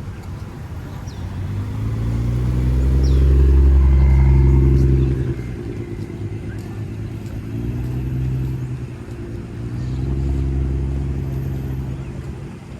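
Car engines with loud exhausts, a low droning note that swells up and cuts off sharply about five seconds in, then swells twice more, more softly.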